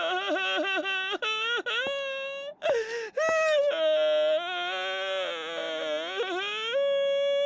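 A high-pitched animated character's voice whimpering and wailing without words, in long wavering cries that break off briefly near the middle, ending on one held steady tone.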